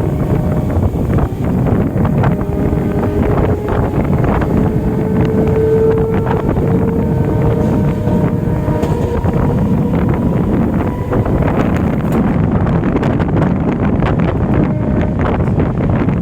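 Inside an electric multiple unit (EMU) local train running at speed: a steady rumble and rush of wind, with repeated clatter of the wheels over rail joints. A whine rises slightly in pitch through the first half.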